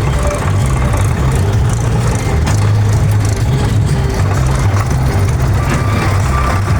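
Tractor's diesel engine running steadily under load, a heavy low rumble with no let-up.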